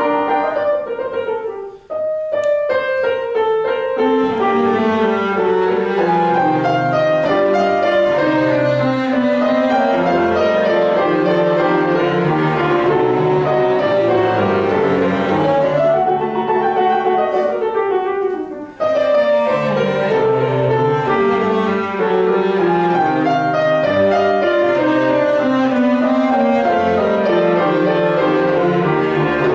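Piano quartet of piano, violin and cello playing classical chamber music, with two brief breaks in the sound about 2 seconds and 18 seconds in.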